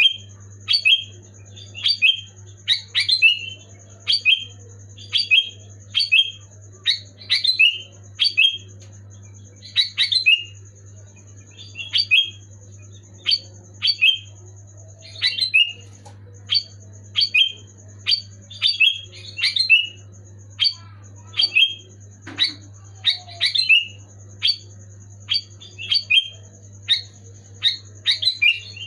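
Sooty-headed bulbul calling over and over: short, sharp notes that drop in pitch, coming one to two a second without a break. A faint steady hum runs underneath.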